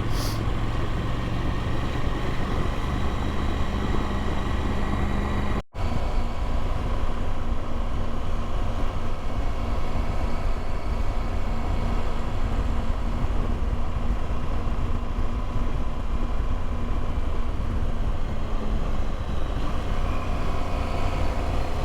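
Motorcycle engine running steadily under way, with wind and road noise on the rider's microphone; the sound drops out for an instant about six seconds in.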